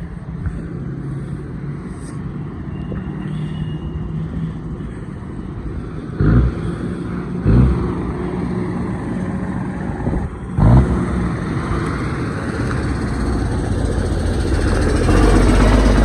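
Truck engine running as the tow rig pulls in with its trailer, growing louder near the end as it comes closer. Three brief loud low bursts break in about six, seven and a half, and ten and a half seconds in.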